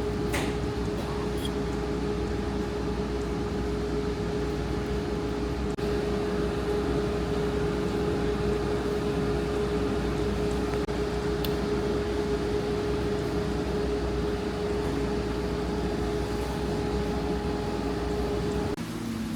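A steady mechanical hum with a constant mid-pitched tone over a low rumble, which cuts off abruptly near the end.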